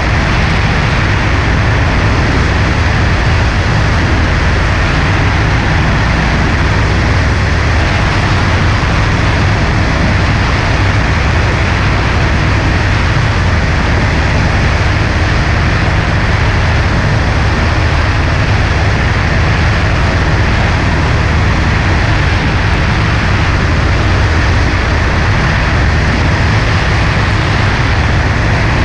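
Cessna 140A's piston engine and propeller droning steadily under a constant rush of air, with no change in power.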